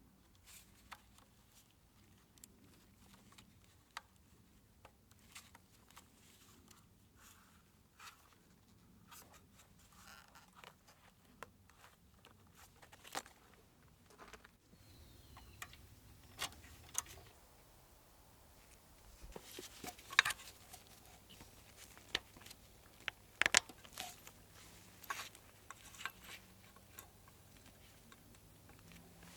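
Scattered light clicks and taps of small parts and hand tools being handled on a workbench, the sharpest about two-thirds of the way in, over a faint low hum.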